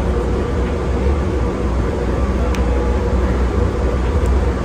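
Interior of an airport automated people-mover train car in motion: a steady low rumble with a faint steady hum over it, and a single faint click about halfway through.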